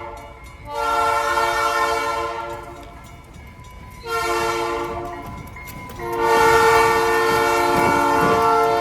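Freight locomotive's multi-chime air horn blowing repeated blasts: a long one, a shorter one, then another long one held past the end, the pattern of a grade-crossing signal. The train's low rumble and rail clatter grow underneath near the end.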